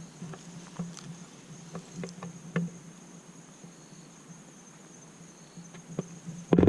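A steady high-pitched insect trill, with scattered light clicks. Near the end, a sudden loud rumbling noise cuts in.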